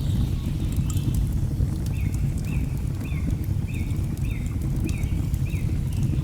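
Log fire crackling with sharp pops over a steady low rumble of a waterfall. From about two seconds in, a bird repeats a short call about twice a second, eight times.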